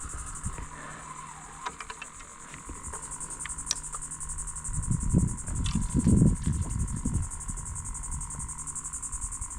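Steady, high-pitched, finely pulsing trill of insects (crickets or cicadas) over a faint steady hum. A cluster of dull low knocks and rumbles comes about halfway through, from the kayak being handled.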